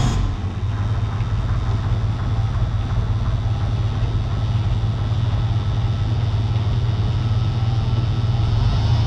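Oliver 880 tractor's gasoline engine running steadily.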